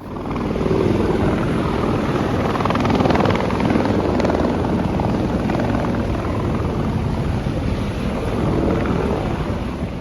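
Helicopter running close by: a loud, steady rotor and engine noise with a fast flutter and a faint high steady tone.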